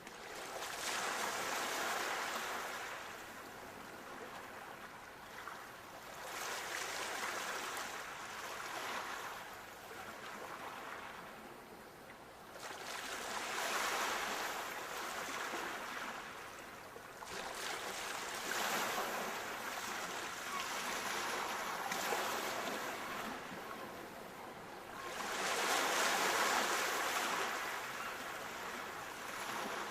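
Sea waves washing in, in slow swells of rushing water: about five surges, each a few seconds long, rise and fall back in turn.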